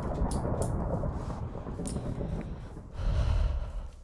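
A person breathing heavily and sniffing close to the microphone, the breath blowing on the mic as a rough low rumble that swells again a little past three seconds and falls away near the end. The speaker is upset and pausing to compose themselves.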